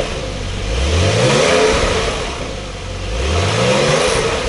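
Porsche 992 Carrera's twin-turbo flat-six revved twice on its factory exhaust with the particulate filter still fitted, the pitch climbing on each blip and falling back to idle. The stock system is muted, with hardly any sound at all to the tuner's ear.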